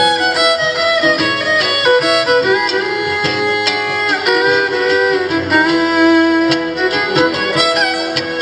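Fiddle playing an instrumental passage of held and sliding notes over plucked acoustic string accompaniment: live acoustic string-band music.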